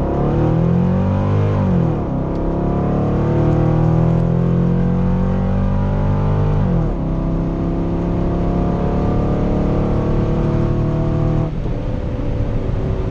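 C5 Corvette's 5.7-litre V8 at full throttle on a quarter-mile drag pass, heard from inside the cabin. The engine climbs in pitch through the gears, with the revs dropping at upshifts about two seconds and seven seconds in, and the throttle comes off about eleven and a half seconds in, past the finish line.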